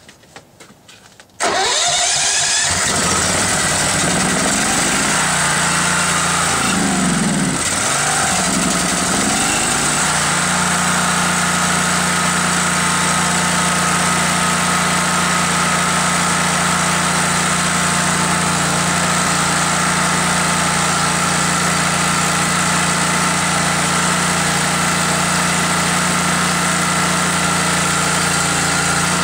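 Generac 10,000-watt generator's engine cold-starting, catching suddenly about a second and a half in after a few faint clicks. Its pitch swings up and down for several seconds as the engine speed settles, then it runs steadily from about ten seconds in.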